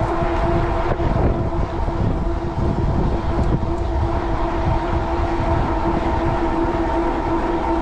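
Rear hub motor of an e-bike (750-watt Bafang) running under power with a steady whine, while wind buffets the microphone with a low rumble.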